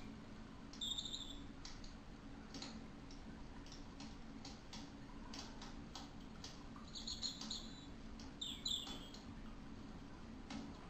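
A bird chirping in three short bursts of high chirps, some sweeping downward, over faint irregular ticks and a low steady hum.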